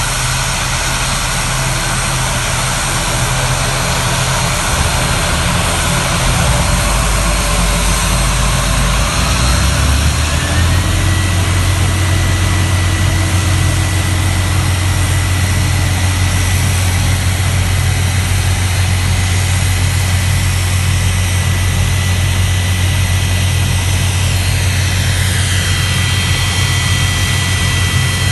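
A NAM Air airliner's engines running loudly and steadily. About ten seconds in, their whine climbs to a higher steady pitch and the low hum strengthens as the power comes up, and near the end another rising tone joins in.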